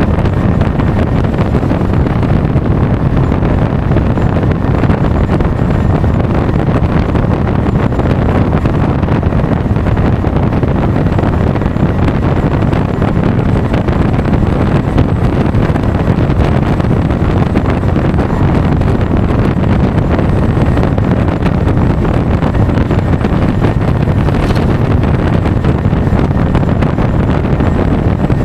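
Steady, loud wind rush on a DJI Osmo Action 4's microphone while riding a Honda Forza 350 scooter at speed.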